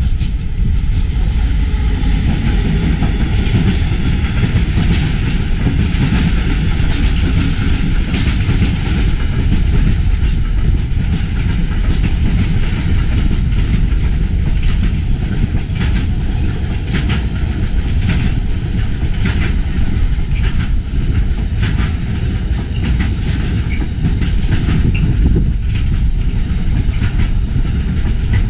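Diesel train passing close by, a heavy continuous rumble of wheels on track. Rapid clicks run through it as the wagons' wheels cross rail joints and points.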